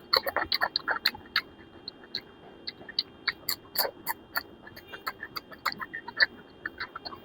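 A person eating close to the microphone: chewing and lip smacking, heard as an irregular run of short, wet mouth clicks, several a second.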